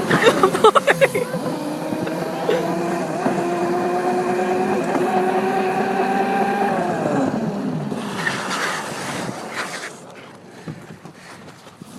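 Mini bike engine running at high revs, its pitch steady for several seconds, then falling away about seven seconds in as the throttle comes off. A brief rush of noise follows, then the engine sound drops off, leaving light ticks near the end.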